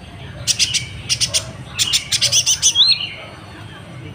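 Kolibri ninja, a sunbird, singing: three quick runs of rapid, very high notes over the first three seconds, the last run ending in a short slurred whistle.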